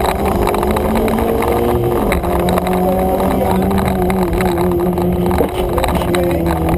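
Fiat Seicento Sporting's 1.2-litre eight-valve four-cylinder engine running hard, heard from inside the cabin. Its pitch drops briefly about two seconds in and again about five and a half seconds in.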